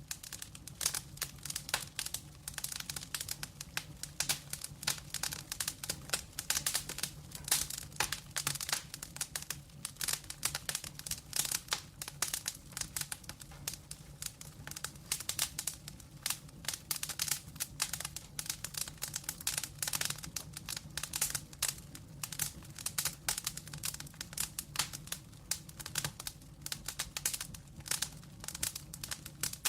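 Wood fire of burning logs crackling, with dense, irregular pops and snaps over a steady low hum.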